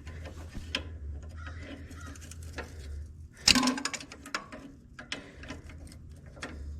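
Pliers working a small part loose on a backhoe's steering column: scattered light metal clicks and scrapes, with one sharp metallic clack about halfway through, over a steady low hum.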